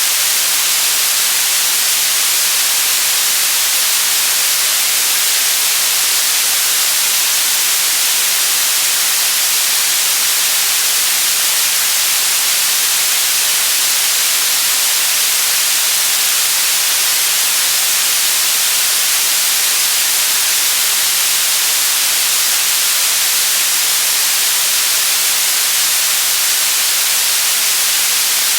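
Continuous white noise: a steady, unchanging hiss at constant level, brightest in the treble.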